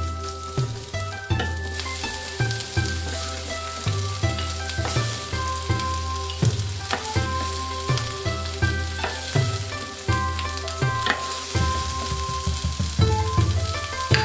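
Bell pepper and onion pieces sizzling in hot oil in a wok, stirred and scraped with a wooden spatula, over background music.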